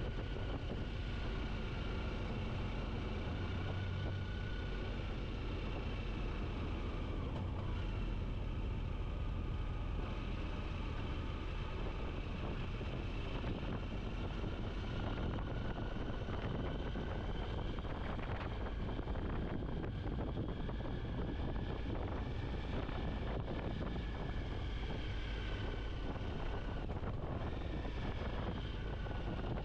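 Motorcycle riding at steady road speed: wind rushing over the microphone with the engine running underneath, a faint whine held at a steady pitch.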